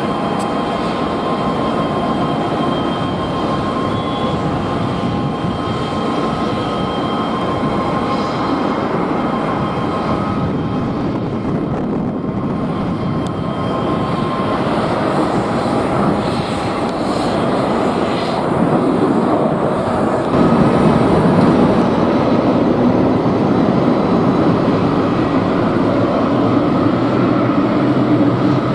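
Jet airliner engines running in strong wind: a steady turbine whine fades out about halfway through, then the noise grows louder with a lower engine hum from about two-thirds of the way in.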